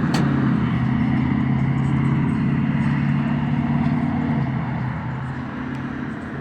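A car engine running steadily at low revs, a constant hum that weakens and grows quieter after about four and a half seconds.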